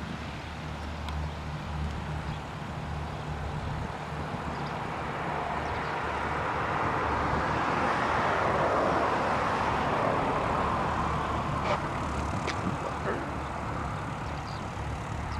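Light propeller aircraft on its takeoff run and climb-out, its engine noise growing to a peak about nine seconds in and then fading, over a steady low hum.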